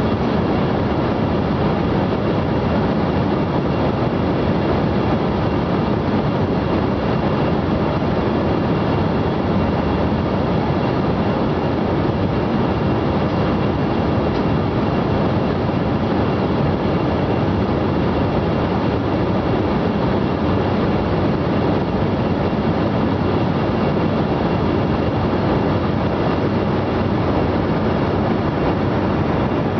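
Steady cabin noise of an airliner in flight, heard from inside the cabin: an even, unbroken drone of engines and airflow.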